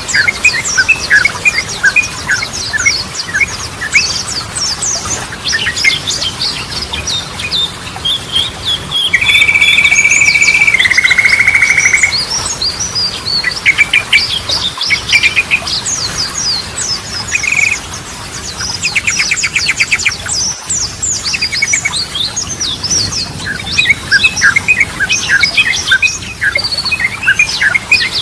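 Yellow-vented bulbul (trucukan) singing: fast, dense strings of sharp chirps and whistled notes, with a loud buzzing trill lasting about three seconds starting about nine seconds in.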